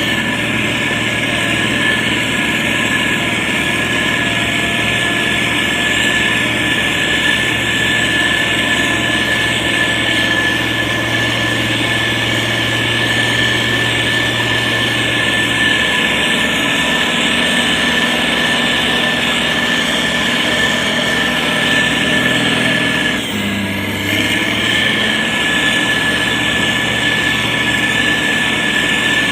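Diesel engine of a SANY STG190C-8S motor grader running steadily under work, with a constant high whine over the engine hum and a brief dip about three-quarters of the way through.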